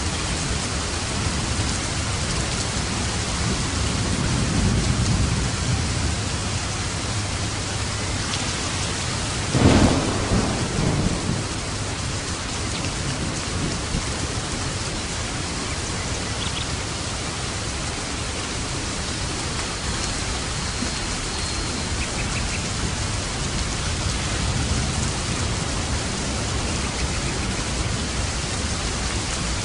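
Steady rain falling, with thunder: a low rumble swells about four to six seconds in, then a sharp thunderclap about ten seconds in rumbles on for a second or so before the rain carries on alone.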